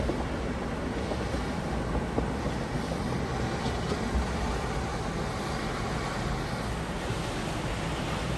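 Steady low rumble of a motor yacht's engines, with the wash of water.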